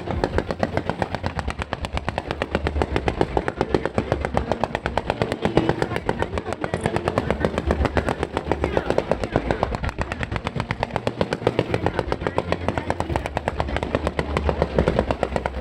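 Fireworks barrage: an unbroken rapid string of sharp bangs, several a second.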